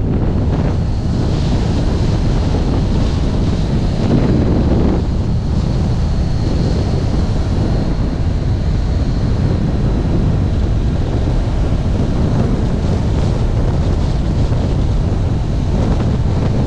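Steady wind noise buffeting a GoPro microphone on a Kawasaki Ninja 1000SX motorcycle at riding speed, with a faint high whine through the first half.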